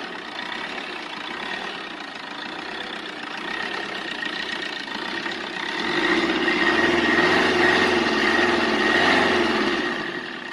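A car engine running steadily, then revving up and down in a string of rises and falls, louder, from about six seconds in until shortly before the end.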